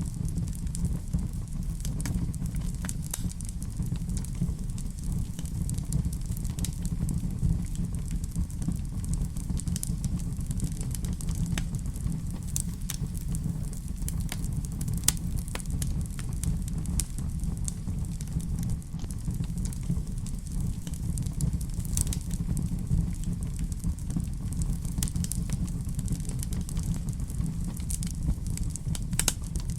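Fireplace fire crackling: a steady low rumble with many scattered sharp snaps and pops, a few louder than the rest.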